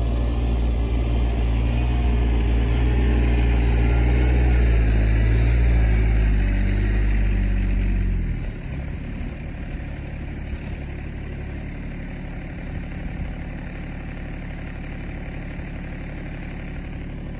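RK24 compact tractor engine running at raised revs, then throttled down to a steady idle about eight seconds in.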